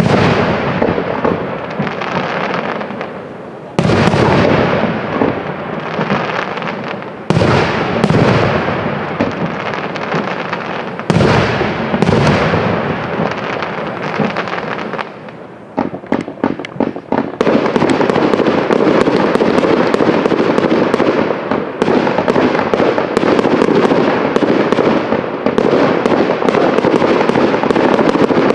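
Fireworks display: six sharp bangs of aerial shells bursting in the first half, each with a long fading tail, some in quick pairs. A little past halfway, rapid crackling starts and soon turns into a dense, steady crackle.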